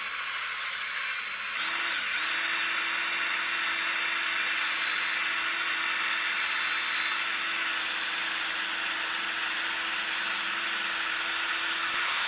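Cordless DeWalt drill spinning a buffing wheel pressed against a motorcycle wheel rim to polish it with Mothers polish, a continuous motor whine over the hiss of the pad on the metal. It changes pitch briefly about two seconds in, then runs at a steady speed.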